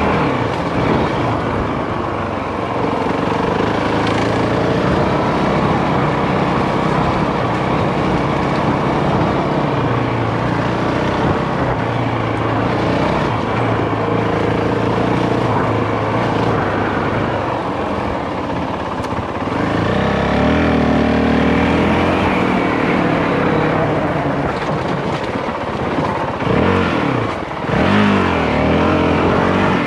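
Dual-sport dirt bike engine running while riding a rough track, over a steady rush of noise; in the last ten seconds or so its pitch rises and falls repeatedly with throttle and gear changes.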